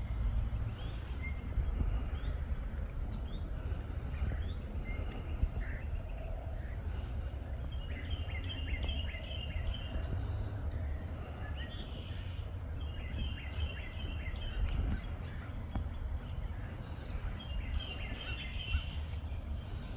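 A songbird sings three short runs of quick repeated high notes, about 8, 13 and 18 seconds in, with a few single chirps before them. A steady low rumble of wind on the microphone runs under it.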